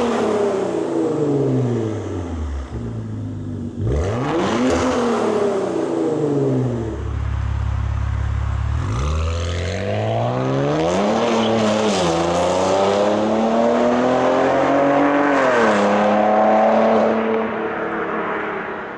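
Maserati Quattroporte 3.0 twin-turbo V6 through a catless downpipe and valved aftermarket exhaust: two revs that rise and fall, a few seconds of steady low running, then a hard acceleration whose pitch climbs and drops back at each gear change, about four and seven seconds apart.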